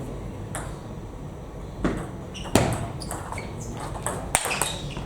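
Table tennis balls struck by rackets and bouncing on tables: a string of sharp, irregular clicks, the loudest about halfway through.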